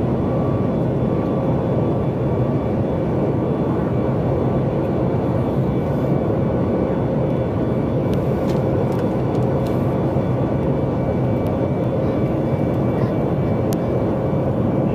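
Steady cabin drone inside a Boeing 737 MAX 8 in flight: the engines and the rush of air over the fuselage, a deep even roar with a faint steady hum on top.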